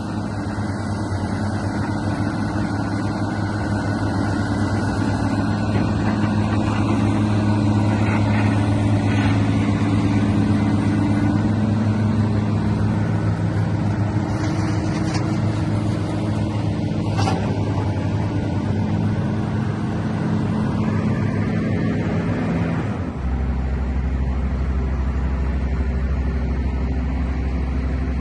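Diesel engine of a 2002 Caterpillar 320CL excavator running steadily, with a few sharp knocks. About 23 seconds in the engine speed drops and it settles to a lower, deeper hum.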